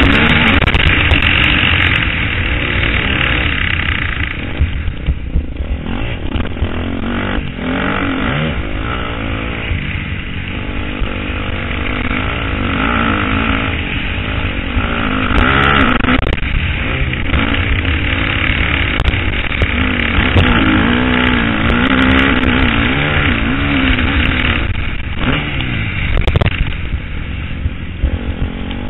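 KTM 250 SXF's 250 cc single-cylinder four-stroke engine rising and falling in pitch over and over as the throttle is opened and shut, heard from the rider's helmet camera.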